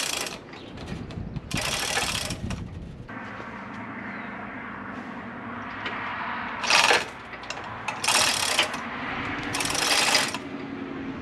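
Hand tools working on a car's engine bay: short bursts of ratchet clicking over a steady mechanical hum.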